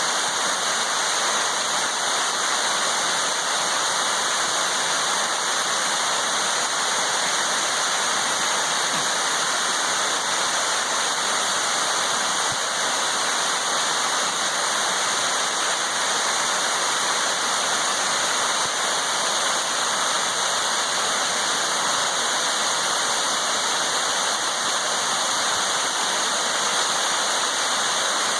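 Waterfall on a creek: a steady, even rush of falling water with no breaks.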